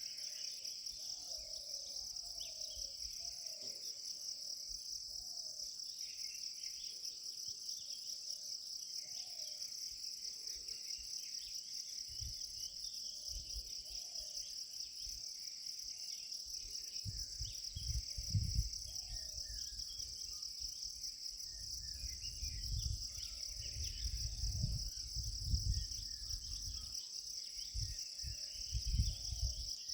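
A steady, high-pitched insect chorus pulsing rapidly without a break, with faint short calls repeating in the first half. Irregular low rumbles come in from about halfway through and are the loudest sounds.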